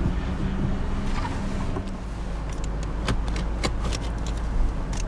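1995 Ford Thunderbird's 4.6-liter V8 idling steadily just after a start-up, heard from inside the cabin. A few short sharp clicks come in the second half.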